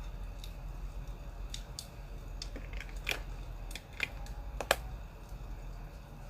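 Wood fire crackling: irregular sharp pops and snaps, about ten in all, the loudest a little before the middle, over a steady low hum.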